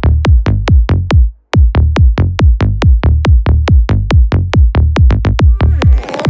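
Psytrance music: a stripped-down driving kick drum and bassline pulse at a steady fast rhythm, with a brief drop about a second and a half in. Fuller synth layers come back in near the end.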